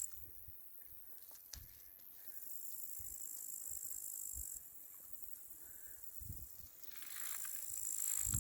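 Crickets trilling: a steady high-pitched chirr that weakens partway through and swells back loud near the end. A few faint low thumps sound underneath.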